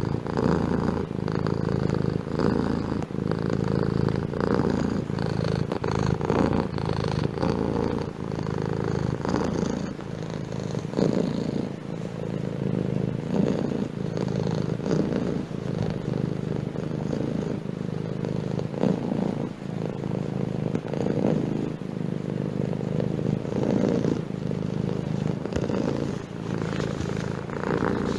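Domestic cat purring steadily and close up, a continuous low rumble.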